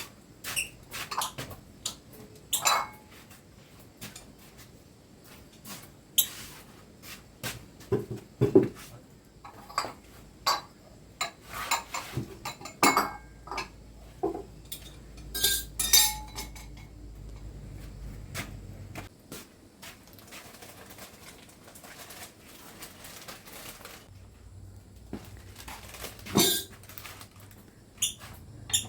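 Irregular clinks and knocks of hard objects being handled, some sharp and some dull. A faint low hum comes in for a few seconds past the middle and again near the end.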